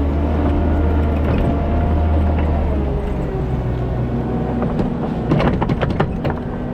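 Kubota SVL97-2 compact track loader's diesel engine running steadily while grading, with a run of clanks and rattles about five seconds in.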